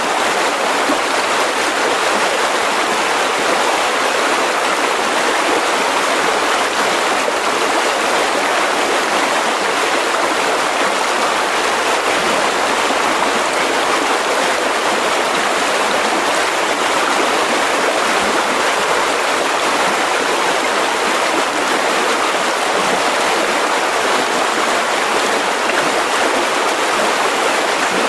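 Mountain river rushing steadily over rocks, an even, unbroken rush of water.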